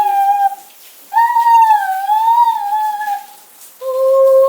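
A young child's high-pitched voice making drawn-out, wavering vocal sounds, three in a row with the middle one lasting about two and a half seconds. Rain hisses faintly behind.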